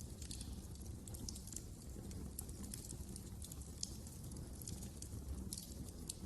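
Fire in a fireplace crackling: irregular sharp snaps and pops over a low, steady rumble of the flames.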